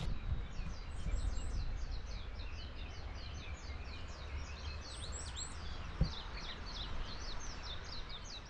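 Small songbird calling: a fast, continuous run of short, high chirps, each sweeping downward, several a second, over a low rumble. A single sharp click about six seconds in.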